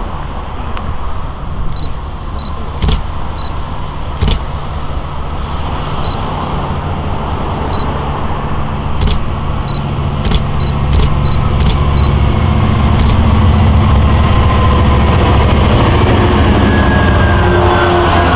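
LIRR DM30AC dual-mode locomotive running on its diesel engine as the train comes in. The engine drone grows louder over the first dozen seconds, then holds steady, with a few sharp clicks scattered through it.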